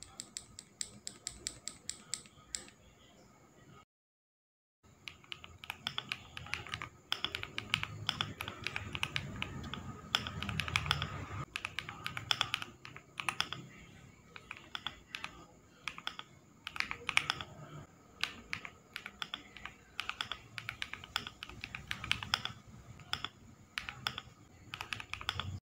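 Steady typing on a mechanical keyboard as a switch sound test, a fast stream of short poppy keystroke clicks. The typing breaks off completely for under a second about four seconds in, then resumes faster and louder.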